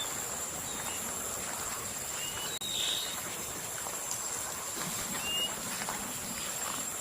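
Outdoor night-insect chorus of crickets: a steady high trill, with a short rising chirp every couple of seconds.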